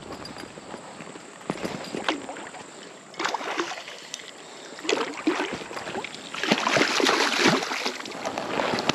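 Water splashing and sloshing in irregular surges as a hooked trout thrashes at the surface close in, the busiest splashing in the second half.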